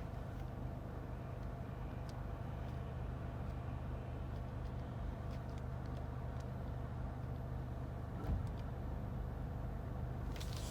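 2022 Chevy Trailblazer RS's 1.3-litre turbocharged three-cylinder engine idling steadily, almost warmed up. A faint click sounds about eight seconds in.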